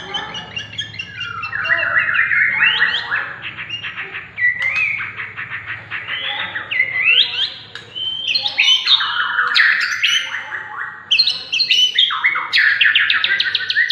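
White-rumped shama (murai batu Medan) singing a continuous, varied song of rapid trills and whistled phrases that slide up and down, broken by brief pauses.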